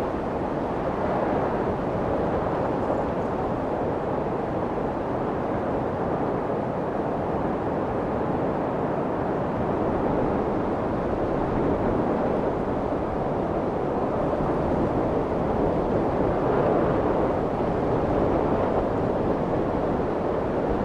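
Steady white noise for soothing a crying baby: a continuous even rushing sound, fuller in the lower-middle range than a thin hiss, with no rhythm or breaks.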